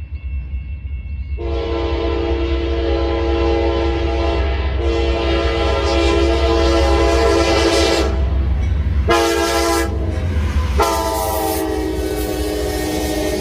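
CSX freight locomotive's air horn sounding the grade-crossing signal: two long blasts, a short one, then a final long blast held on, over a steady low rumble.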